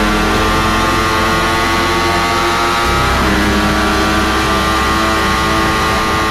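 250cc sport motorcycle engine at high revs under hard acceleration, its pitch climbing steadily. About three seconds in, an upshift briefly drops the pitch before it climbs again.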